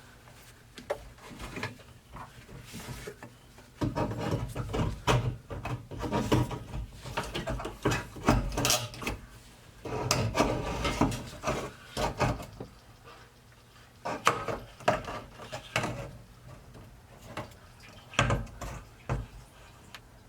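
Hands working the fuel pump assembly out of a Honda Civic's fuel tank: irregular clicks, knocks and rubbing scrapes of handled parts, busiest in the first half.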